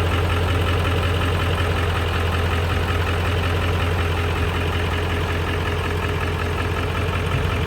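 Diesel pickup engine running at a steady idle, a constant low hum.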